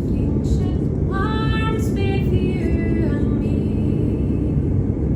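Steady low rumble of an airliner's cabin noise in flight. About a second in, a high-pitched voice rises and then falls over it for about two seconds.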